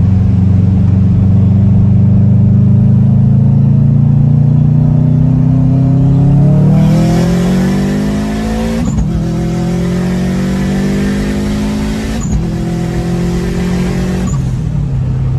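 Turbocharged EJ257 flat-four in a swapped Subaru Forester with a straight-piped exhaust, heard from inside the car under hard acceleration. The engine note climbs steadily, then pulls harder about six seconds in with a hiss over the top. It drops abruptly at two quick upshifts, about nine and twelve seconds in, climbing again after each, and eases off near the end.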